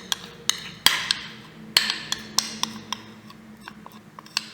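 Spoon knocking and clinking against a mixing bowl of dry cereal ingredients: a run of sharp, irregular clicks, two of them louder, about a second in and again near two seconds.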